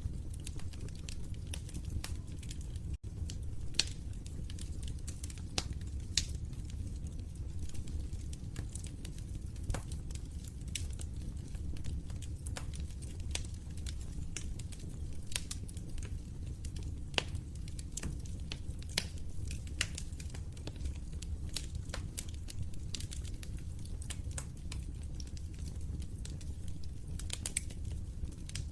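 Wood fire crackling steadily, with a low rumble of flames under frequent, irregular sharp pops and snaps.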